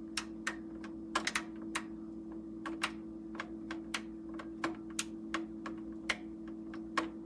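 Irregular clicking from the Cuisinart TOA-65 air fryer toaster oven's controls being worked, about fifteen sharp clicks at an uneven pace, over a steady low hum. The settings it is stepping through jump erratically, so the temperature is hard to set.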